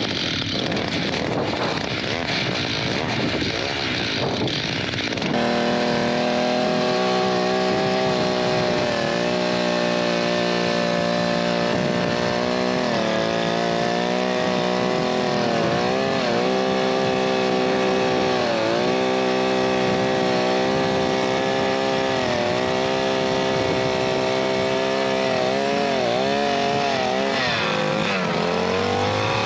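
Small two-stroke engine of a motor ice auger starting up about five seconds in and running hard, its pitch dipping and recovering again and again as the auger bites into the ice.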